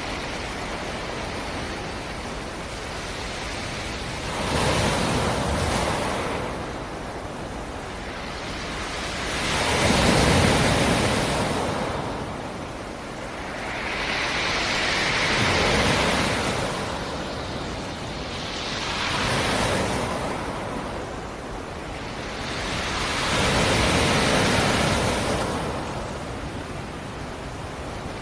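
Black Sea surf: waves breaking on the shore and washing back, about five surges, each swelling and fading over a couple of seconds, one roughly every five seconds, over a constant wash of sea noise.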